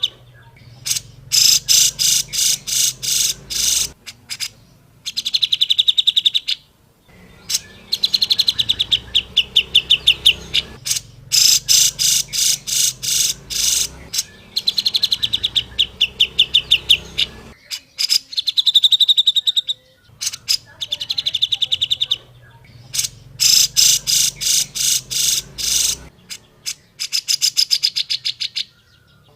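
Grey-cheeked bulbul (cucak jenggot) singing: a string of phrases, each a few seconds of rapid, rattling repeated notes, with short pauses between them.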